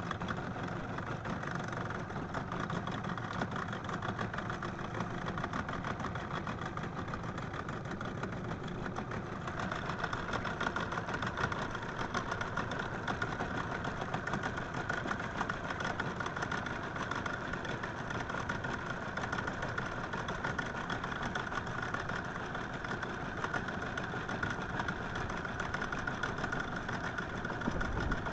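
An engine running steadily, a little louder and brighter from about ten seconds in.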